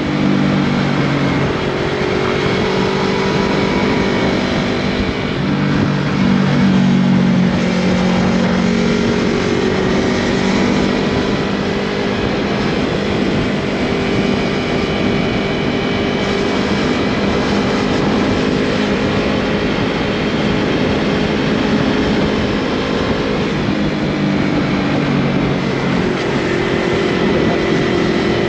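Yamaha MT-03 motorcycle with a Scorpion full-system exhaust running at road speed, its engine note stepping up and down in pitch several times with throttle and gear changes, over a steady rush of noise.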